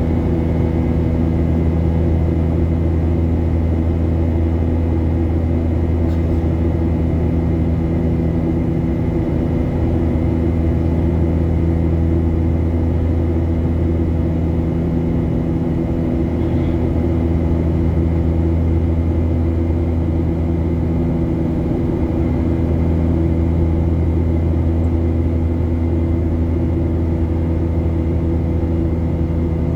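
Steady drone heard inside the cabin of a Boeing 737-800 climbing after takeoff: its CFM56-7B turbofan engines and the airflow make a low hum with several steady tones over it.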